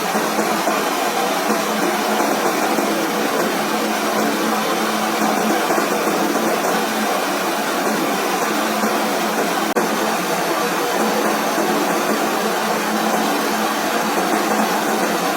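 A power tool running steadily: a continuous motor whirr with a faint steady hum.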